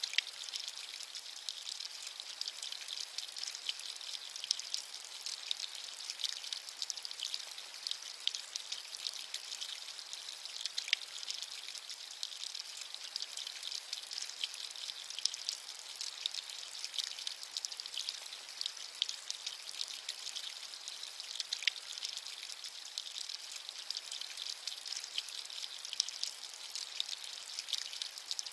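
Steady rain, a fine hiss full of close, small drop ticks with no low rumble.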